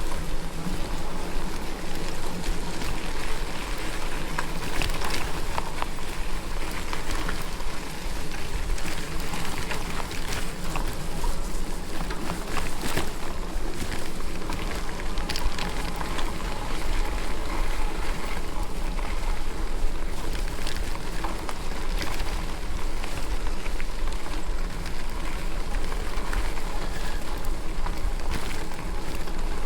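Steady noise of an e-bike ride on a wet, muddy trail: wind rumbling on the microphone and tyres rolling, with many small scattered clicks and ticks throughout.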